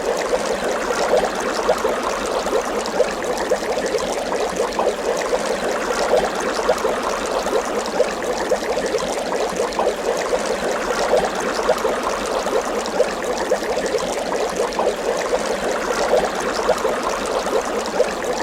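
Water bubbling steadily, with a dense run of small bubble pops.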